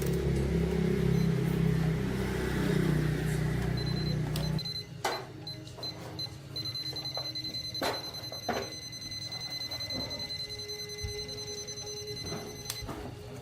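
A small electric motor running with a steady hum that cuts off abruptly about four and a half seconds in. After it stops come scattered clicks and knocks, and a steady high-pitched tone that beeps a few times and then holds until near the end.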